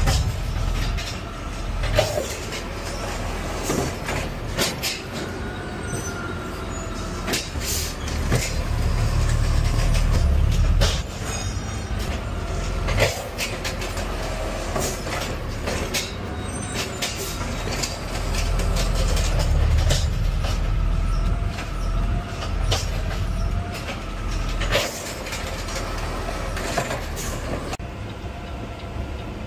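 Peterbilt garbage truck running, a low engine rumble that swells and eases, with frequent metal knocks and rattles and faint wavering squeals throughout.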